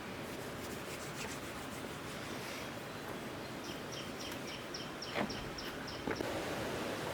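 Outdoor ambience: a steady background hiss, with a quick run of high chirps, about four or five a second, starting a little past halfway and lasting about two and a half seconds. Two short knocks come near the end.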